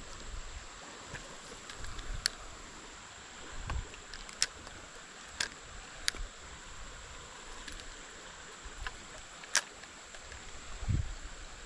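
Creek water running steadily, with a handful of sharp clicks and a couple of low bumps from handling fishing gear.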